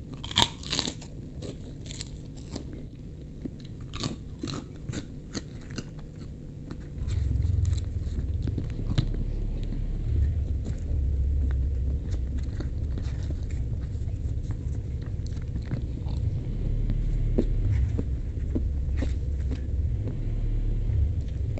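Close-up crunchy biting and chewing of food, with sharp crisp crunches through the first few seconds. About seven seconds in, a steady low rumble starts and stays louder than the chewing.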